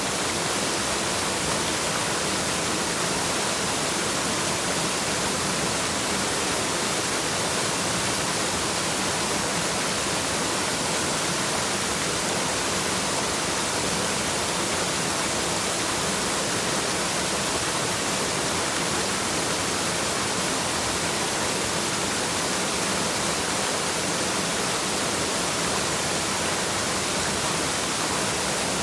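Waterfall rushing, a steady, even hiss of falling water with no changes.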